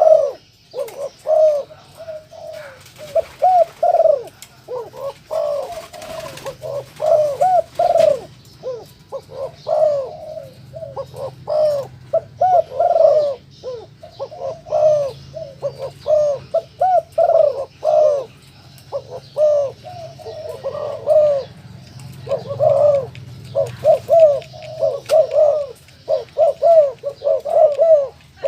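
Tame colour-morph puter doves (Barbary doves) cooing over and over: short arched coos in quick runs, with brief pauses between runs.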